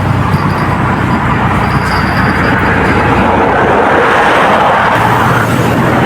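Road traffic passing close by: a loud, steady rush of tyres and engines with a low engine hum underneath.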